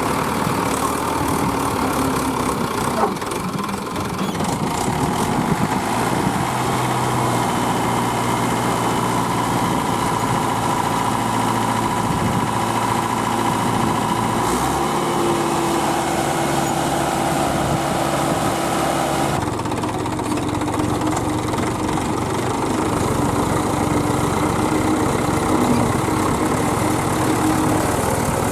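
Heavy diesel engine of working farm machinery running steadily, its note changing a few times, about six, fifteen and twenty seconds in.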